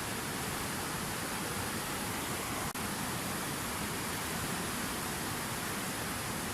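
Fountain waterfall: water falling and splashing in a steady, even rush, broken once by a split-second dropout partway through.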